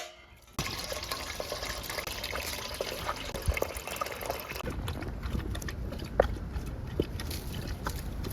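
Water trickling and dripping at a dog water station, with small plinks of drops. It starts abruptly about half a second in.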